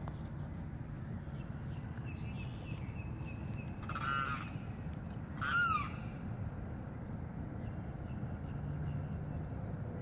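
A bird gives two short, harsh, nasal calls about a second and a half apart, the second dropping in pitch at its end, over a steady low background rumble.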